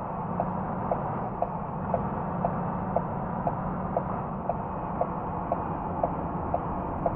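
A truck running with a steady low drone, and a sharp, regular ticking about twice a second over it.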